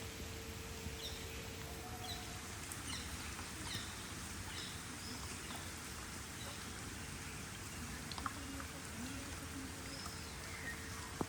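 Rain falling steadily, an even hiss with a few sharp drip ticks about eight seconds in. Short high chirps come and go through it.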